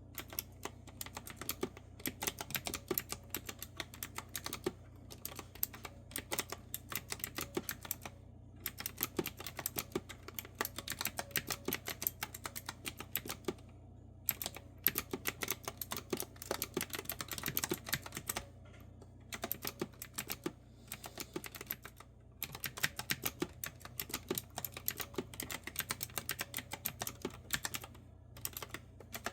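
Fast typing on a clicky retro-style keyboard with round keycaps: dense runs of crisp keystrokes broken by brief pauses every few seconds, over a faint steady low hum.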